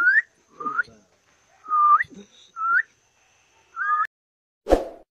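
Myna bird whistling: about five short whistled notes, each sliding upward, spaced roughly a second apart. A single dull thump follows near the end.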